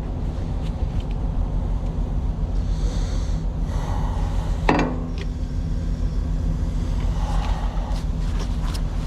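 Truck engine idling steadily, with one sharp knock a little under five seconds in.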